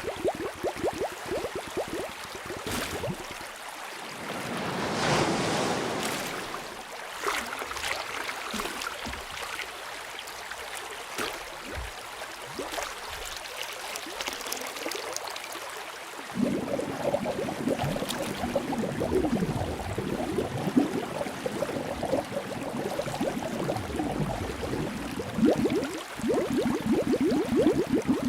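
Underwater ambience of bubbles gurgling and rising in the water. There is a swell of rushing water about five seconds in, and the bubbling grows denser and louder again about halfway through.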